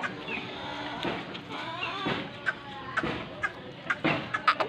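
Aseel chickens clucking in short sharp calls that come thicker toward the end, with people talking in the background.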